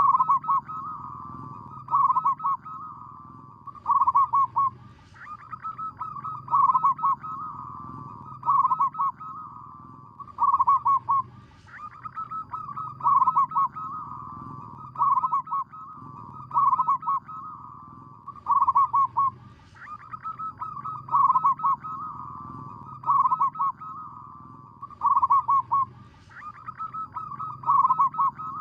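Zebra dove singing: a rapid, stuttering cooing phrase, repeated about every two seconds.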